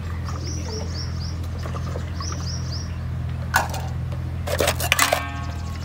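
A small bird chirps twice, each time a quick run of three or four falling notes, over a steady low hum. Several sharp knocks and clicks come in the second half.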